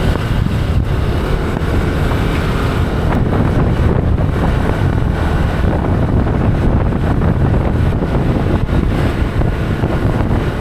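Steady wind rumble buffeting the microphone over a vehicle's engine and road noise, as heard while riding along.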